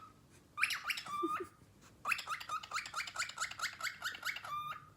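Cockatiel chirping: a short cluster of rising chirps, then after a brief pause a longer run of quick repeated chirps.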